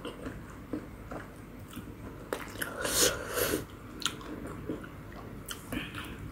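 Close-miked eating sounds of instant ramen noodles: wet chewing and small mouth clicks, with a louder noisy stretch about halfway through.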